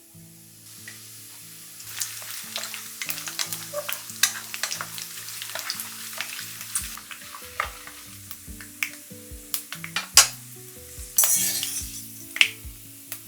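Food sizzling as it fries in hot oil, with a metal utensil clicking and scraping against the pan throughout. A louder surge of sizzling comes about eleven seconds in.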